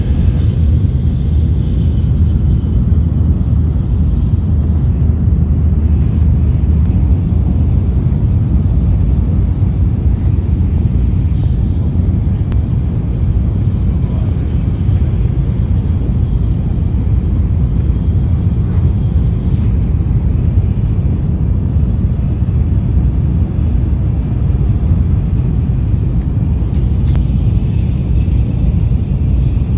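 Shinkansen bullet train running, a steady low rumble that holds at one level throughout.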